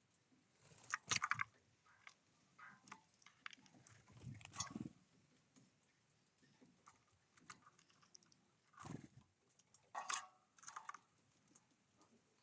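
Birds feeding at a seed feeder: a handful of sporadic short taps, cracks and rustles as seeds are pecked and husked, the loudest bursts about a second in and again near the end.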